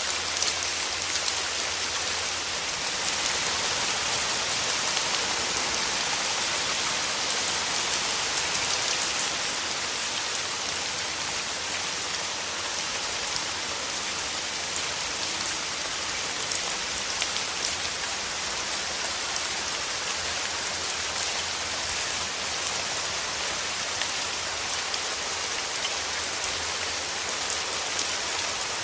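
Steady rainfall, a dense even hiss of drops pattering on leaves and surfaces, with fine individual drop ticks and no change in intensity.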